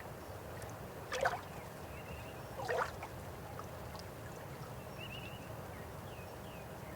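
River water flowing steadily, with two louder splashes or gurgles, about a second in and near the three-second mark.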